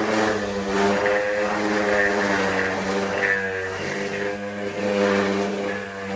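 A motor-driven tool running steadily, its hum wavering a little in pitch.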